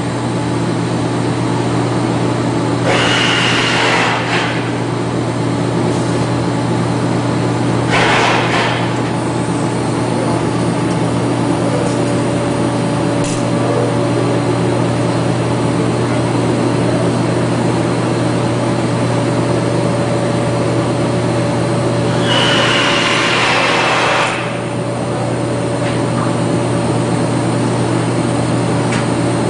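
TIG welding machine running with a steady electrical buzz, interrupted three times by short bursts of hiss.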